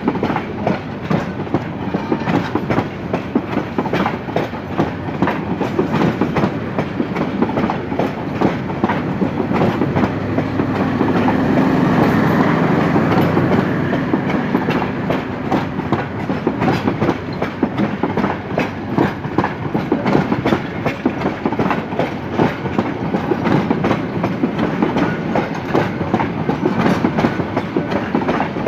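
Passenger coaches of an intercity train rolling past close by, their wheels clattering over rail joints in a steady clickety-clack over a continuous rumble. The sound swells loudest about halfway through.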